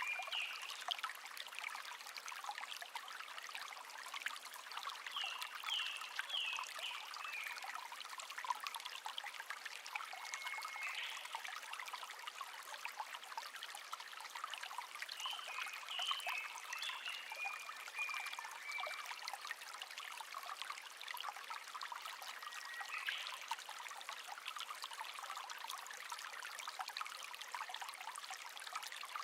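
Small stream trickling and babbling steadily over stones, with wild birds singing short chirping and whistled phrases every few seconds above the water.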